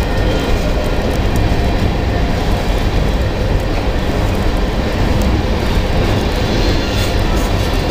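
Freight train of tank cars and boxcars rolling past close by: a steady, loud noise of steel wheels on rail with scattered faint clicks.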